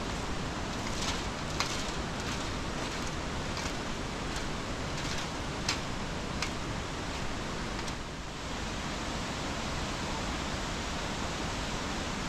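Steady rushing noise, with a scattered series of sharp clicks and taps through the first two-thirds and a brief dip about eight seconds in.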